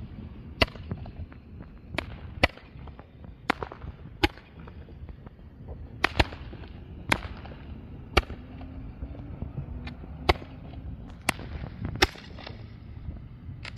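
Small fireworks popping: about a dozen sharp cracks at irregular intervals, roughly a second apart.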